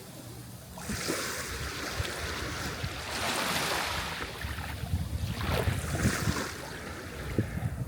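Sea waves breaking and washing ashore: a surge of surf starts about a second in and swells, followed by a second wash, over a steady low rumble.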